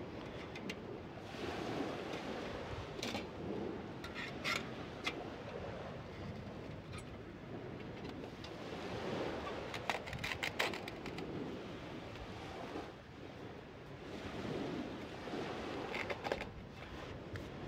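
Waves washing in on a sandy beach, the surf swelling and easing every few seconds, with wind on the microphone. A few sharp clicks and knocks stand out over it.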